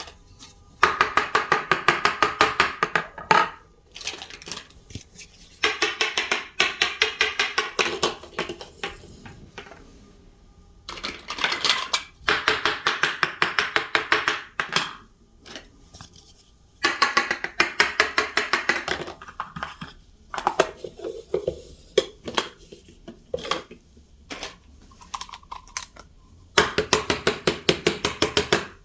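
Small plastic toy kitchen pieces clicking and clattering in rapid, even runs of about eight clicks a second. The runs last roughly three seconds each, with short pauses between them.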